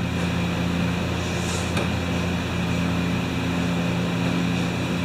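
Steady low machine hum, like a running fan or motor, with a faint click about two seconds in.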